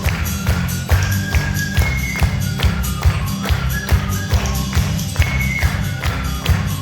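Flute playing a bright, simple melody over a backing track, with an audience clapping along in time at about two claps a second.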